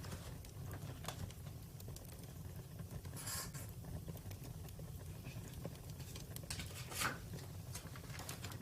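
Campfire crackling: a steady low rumble with scattered pops and snaps, the loudest about seven seconds in.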